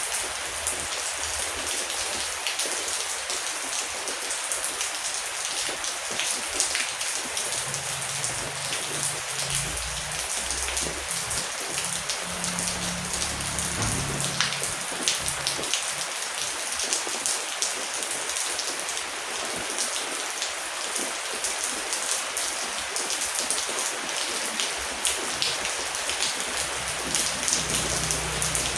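Heavy rain falling steadily: a dense hiss full of sharp individual drop ticks. A low rumble swells up about a third of the way in and again near the end.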